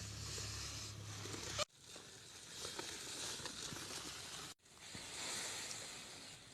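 Steady rustling outdoor noise with a few faint ticks, broken by two abrupt cuts between clips.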